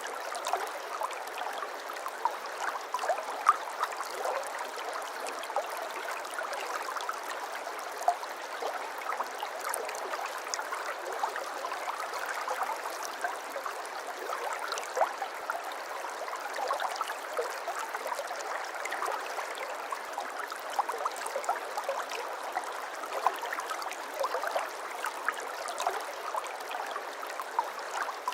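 Shallow water flowing and trickling steadily, a continuous babble of small splashes and gurgles.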